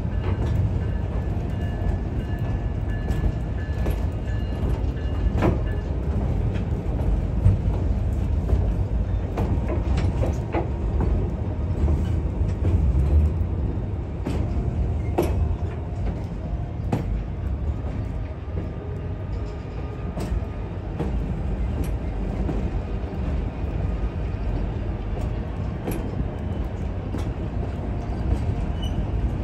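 White Pass & Yukon Route narrow-gauge passenger train rolling along: a steady low rumble of the cars on the track, with scattered sharp clicks and knocks at irregular intervals.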